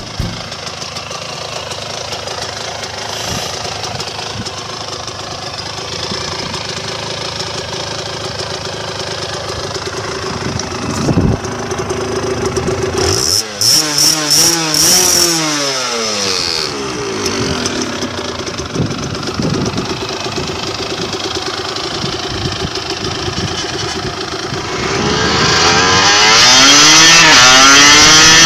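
Aprilia Pegaso 125's two-stroke single-cylinder engine running steadily, revved up and back down about halfway through. Near the end it gets much louder as the pitch climbs under acceleration.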